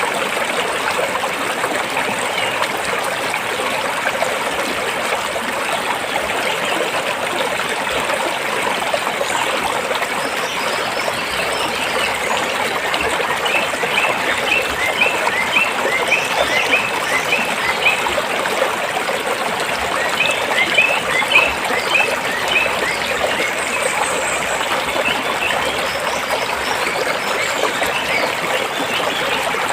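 Stream water running and trickling over rocks, a steady rush. About halfway through, and again a few seconds later, a run of short, high, quickly repeated chirps sounds over it.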